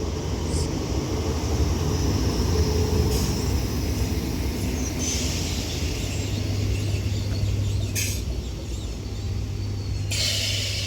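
Northern Class 769 multiple unit pulling into the station: a steady low hum from the train with short hisses, the loudest near the end.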